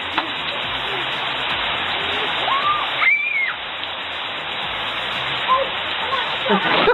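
Steady rush of heavy rain or pouring water, with a few short high-pitched cries over it near the middle and again later on.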